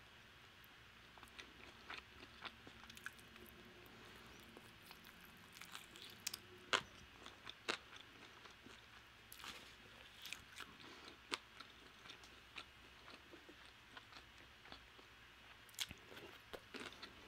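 Faint, close-up chewing of Korean fried chicken wings, with scattered crisp crunches and mouth clicks.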